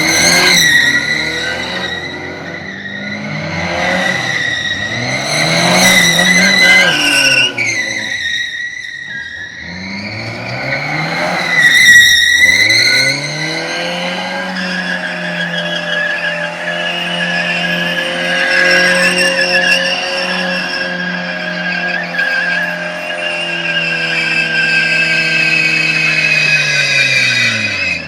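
Tofaş Doğan SLX engine being revved hard: several quick rises and falls in pitch, then held at high revs at one steady pitch for about thirteen seconds before the revs drop near the end.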